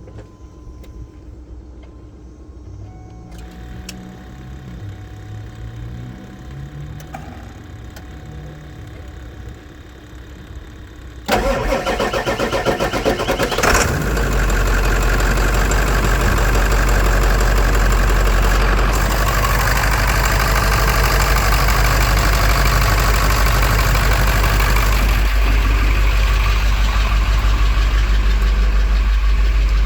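A 1999 Ford F450's engine is cold-started after sitting for a week to ten days. For about eleven seconds there is only low background noise. Then the engine cranks suddenly for a couple of seconds, catches, and settles into a steady idle.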